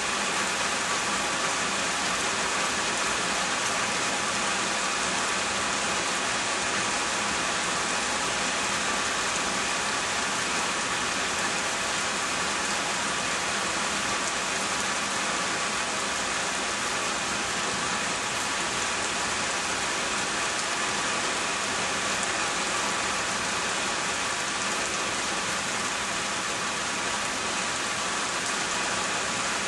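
Steady rain falling, an even hiss of rain on surfaces that holds at the same level throughout.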